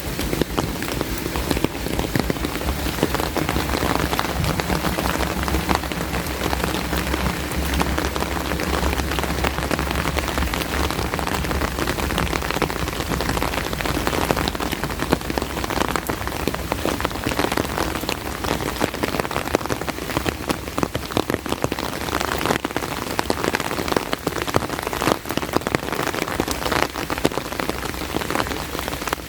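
Steady rain falling, with many separate drops striking close by as quick ticks. A low hum sits underneath for several seconds in the first half.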